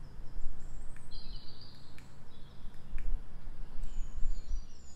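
Birds chirping in the background, short high chirps coming now and then, over a steady low hum and low rumble, with faint ticks about once a second.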